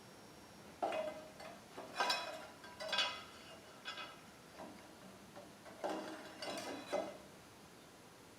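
Metal parts and hardware being handled during assembly, giving a string of separate clinks and knocks with a short metallic ring, in two groups a few seconds apart.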